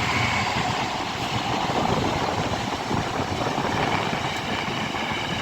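Class 66 diesel-electric locomotive hauling a freight train past, its engine running under steady load with the continuous rumble of the train rolling by.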